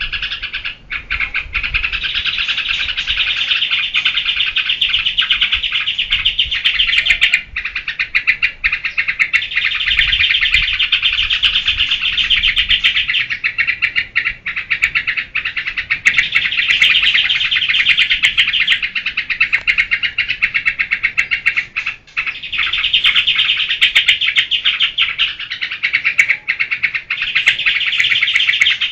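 Yellow-vented bulbul (trucukan) singing a fast, continuous chattering 'geberan' song. The song swells in loud phrases of a few seconds each, with brief breaks between them.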